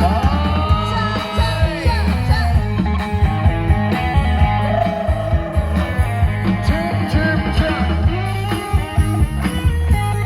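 Loud amplified Thai procession-band music: a heavy, steady bass beat under guitar and a bending, sliding lead melody line.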